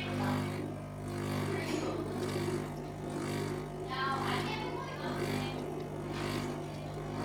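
Steady low hum of a Saeco Intelia Evo espresso machine warming up, with music and voices in the background.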